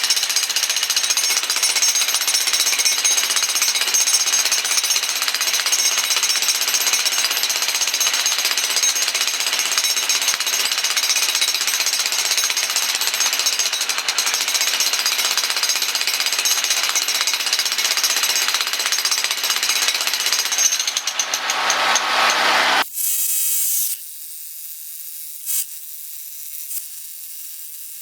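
Power demolition hammer pounding concrete, a loud steady rattle that cuts off abruptly about 23 seconds in. After it stops, a fainter high whir with a few clicks remains.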